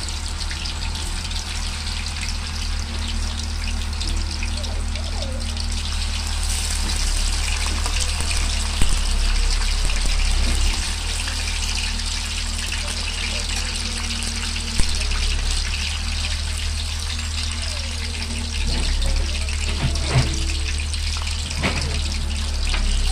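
Tofu cubes deep-frying in hot oil in a metal wok: a steady sizzle, with a low steady hum underneath. Twice, about nine and fifteen seconds in, a sharp click as the metal spatula knocks against the wok.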